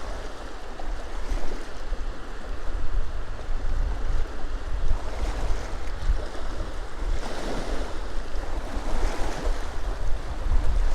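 Small waves on a loch washing onto the shore, with louder washes about five seconds in and again around seven to nine seconds. Wind buffets the microphone with a low rumble throughout.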